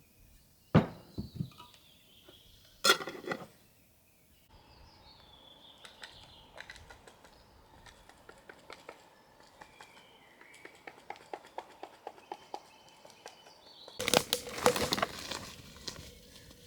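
Kitchen work sounds: a few sharp knocks early on, then a run of quick light taps and a loud burst of clatter near the end, with faint bird chirps in the background.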